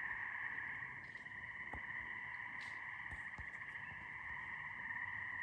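A steady, dense chorus of many small animals calling at once: a continuous trilling drone at one fixed pitch, with a fainter lower band beneath it.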